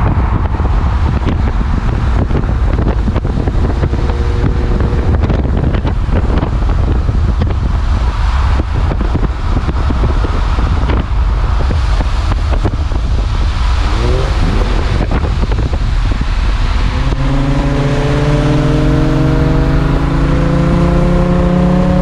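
Nissan 350Z's VQ V6 running through an aftermarket Tomei exhaust under loud road rumble while driving. Near the end it accelerates, the exhaust note rising steadily in pitch.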